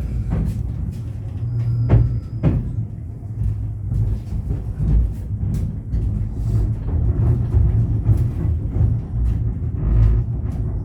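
Inside a 71-911EM "Lvyonok-M" tram under way: a steady low running rumble, with scattered knocks and clatter from the car body and track. The loudest knocks come right at the start and again about two seconds in.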